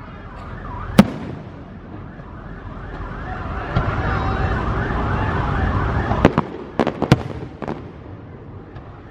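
Aerial fireworks going off: a sharp bang about a second in and a quick cluster of bangs around six to eight seconds. Before the cluster, a wavering, siren-like whistling swells up for a few seconds.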